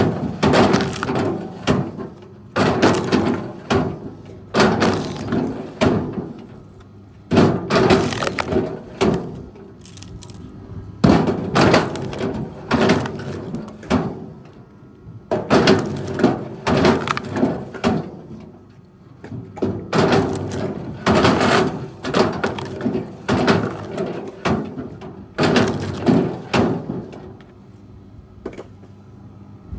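Repeated loud cracking and crashing, one burst about every two seconds, over the steady hum of a running machine.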